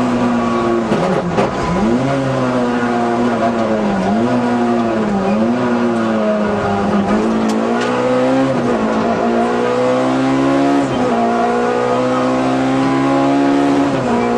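Peugeot 106 A5K kit car's engine running hard at high revs, heard from inside the cabin. The pitch dips and climbs again several times as the driver lifts off and changes gear, with a sudden drop about eleven seconds in.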